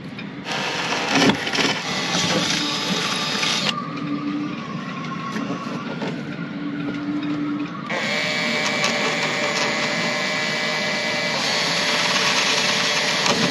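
Electric drill running in two spells, one about three seconds long and a longer one of about six seconds near the end, while fastening a vent cover with screws.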